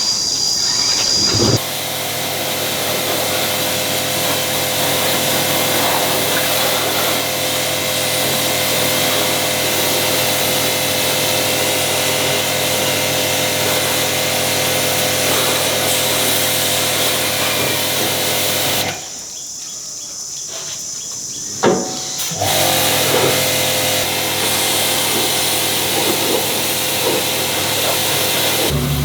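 A power tool running steadily with a constant whine over a hissing noise, in several edited stretches; it drops away for a few seconds about two-thirds through, where a single sharp knock is heard.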